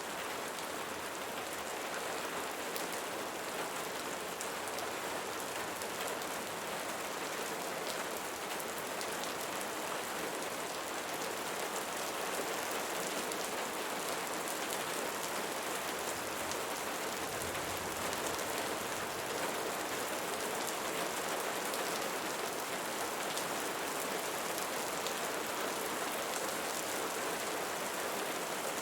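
Steady rain falling, a constant hiss of drops with fine patter of individual drops hitting a surface.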